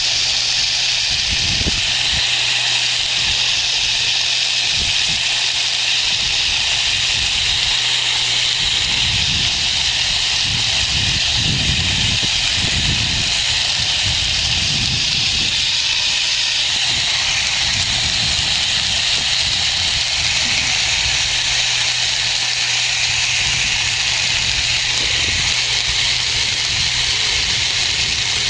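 Steady hiss of water spraying from a hose sprayer onto a horse's muddy coat, applying wash product.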